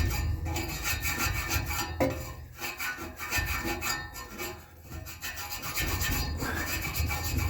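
Small brush scrubbing between the blades of a furnace blower wheel, the bristles rasping against the dirty fan vanes in repeated strokes.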